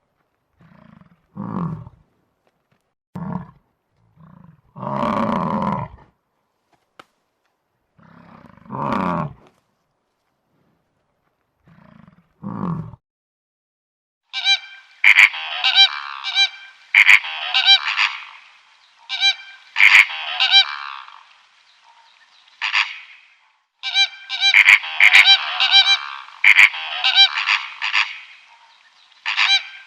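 Geese honking: a flock's rapid, overlapping honks start about halfway through and keep on. Before them come a few separate low roaring calls from a large animal, each a second or less.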